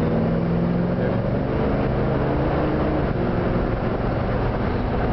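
Oldsmobile 455 Rocket V8 in a 1968 Olds 442 pulling under throttle, heard from inside the cabin: a steady engine note that climbs slowly in pitch, then steps down about three seconds in and carries on.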